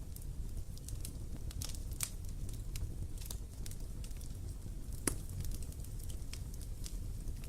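Wood campfire crackling: irregular sharp pops and snaps over a low steady rumble of the burning fire, one louder pop about five seconds in.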